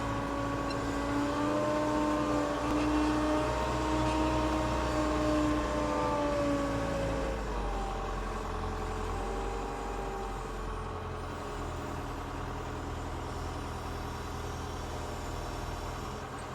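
Heavy diesel engine running steadily, its pitch drifting slightly and then dropping lower about seven seconds in.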